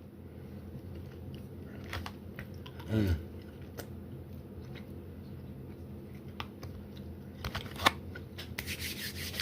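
A person chewing and biting into a fried chicken nugget, with scattered small clicks and crunches and a short hum of voice about three seconds in. Near the end a rubbing, rustling noise starts up.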